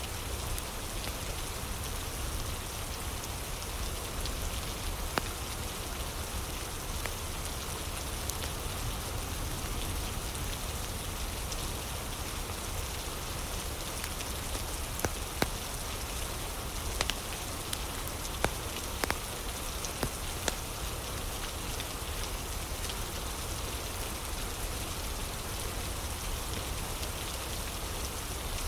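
Steady rain falling, with a few sharp crackles of a wood fire scattered through the middle.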